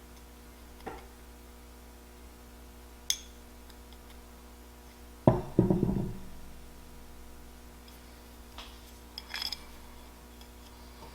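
Carburetor parts and a small screwdriver being handled during disassembly: scattered metal clicks and knocks, with the loudest knock and a short clatter about five seconds in, over a faint steady hum.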